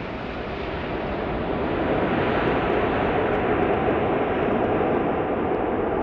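Jet noise from an Airbus A380's four turbofan engines, a dense, steady rush that swells over about two seconds and then holds.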